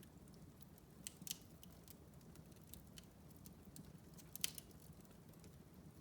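Wood fire burning in a fireplace: scattered crackles and pops over a low steady rumble, the sharpest pops about a second in and again about four and a half seconds in.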